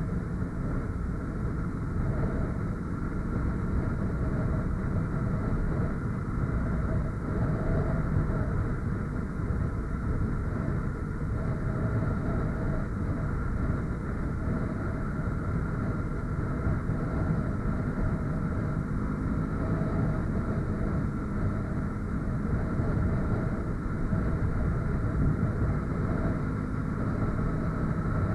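Motorcycle ridden at a steady speed: a steady engine drone under a low, constant rushing noise.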